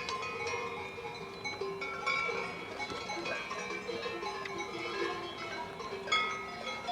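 Several cowbells clanking irregularly, a jumble of short ringing tones at different pitches.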